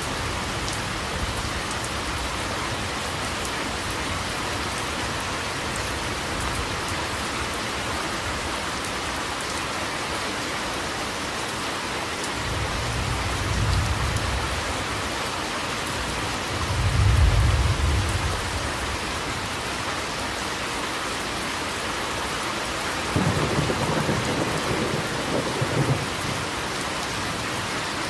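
Steady heavy rain with thunder rumbling: a low roll about halfway through, the loudest peal soon after, and a sharper crackling rumble near the end.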